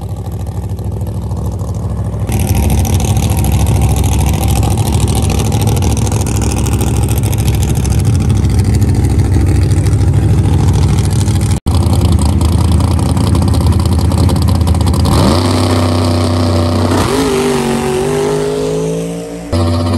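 Fox-body Ford Mustang drag car's engine running hard with tires spinning in a smoky burnout. In the last few seconds the revs rise and waver up and down while a nitrous backfire sets the front of the car on fire.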